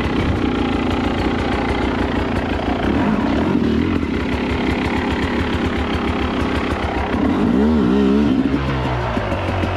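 Two-stroke dirt bike engine running under throttle, blipped up and down a few times about eight seconds in.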